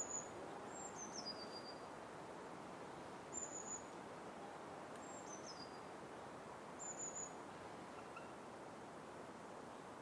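Night forest ambience: a steady soft hiss of background noise, with a small creature repeating a short high-pitched chirp, then a call that steps down in pitch, about every three and a half seconds, three times.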